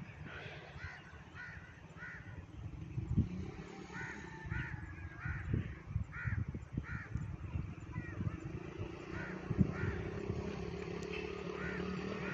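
Crows cawing repeatedly in short calls, over a low rumble with a steady hum that builds in the second half.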